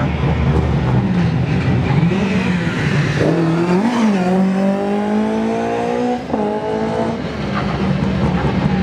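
Rally car engine under hard acceleration, its pitch climbing steadily, with a brief drop about six seconds in at an upshift before it climbs again.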